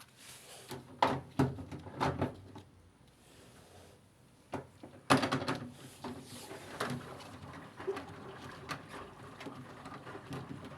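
Several sharp knocks and clatters, a cluster about a second in and another about five seconds in.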